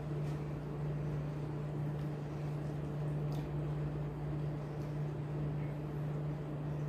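A steady low hum with a few faint clicks on top.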